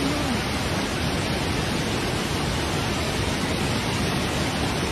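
Steady rush of a flooded river's fast-flowing water, an even noise with no break.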